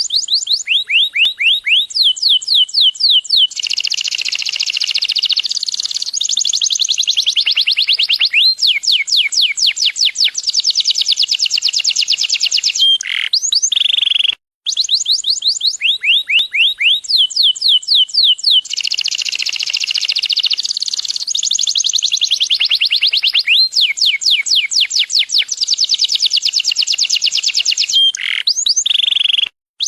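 Domestic canary singing a long, loud song of rapid trills and fast rising sweeps, phrase after phrase. The same song plays twice over, each time about fifteen seconds long and ending in a short silence, as on a looped recording.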